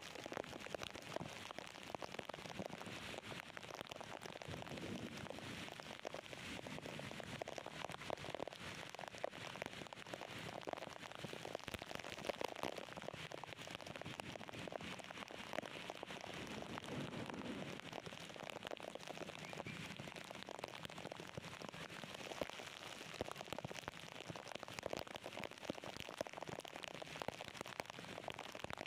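Heavy rain falling: a steady hiss of dense pattering drops.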